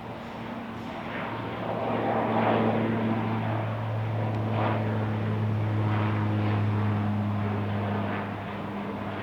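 Aircraft engines running as a plane passes, a steady low hum under a rushing noise that grows louder about two seconds in, holds, and eases off near the end.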